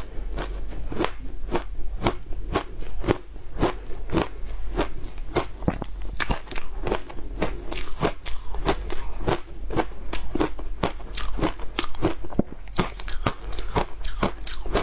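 Frozen matcha ice being bitten and chewed, with crisp crunches and crackles at about two to three a second, close to the microphone.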